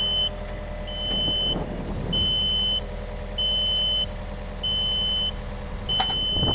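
Yanmar ViO50 mini excavator's quick-coupler warning beeper sounding a steady, high, evenly spaced beep about once every 1.25 seconds over the running diesel engine, signalling the coupler is in release mode to drop the bucket. The hydraulics work briefly about a second in, and there is a sharp click near the end.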